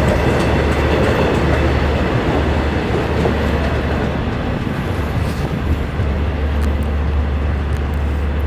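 A train rolling by close at hand: a steady, loud rumble of wheels on rail with a low hum underneath.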